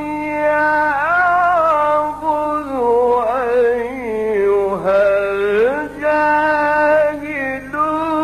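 Male Quran reciter's voice in Egyptian mujawwad style, holding a long melismatic line with pitch glides and ornaments, dipping low in the middle and climbing again, over a steady low hum.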